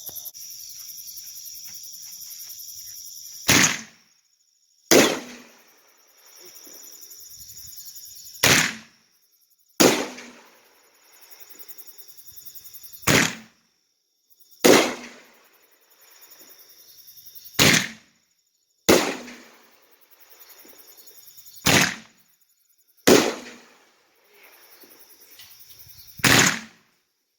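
Rising Tiger 7-shot 500 g firework cake firing one shot about every four and a half seconds. Each shot is a sharp launch bang followed about a second and a half later by the bang of the shell breaking, then a faint crackle of the gold strobe. Crickets chirp steadily in the background before the first shot.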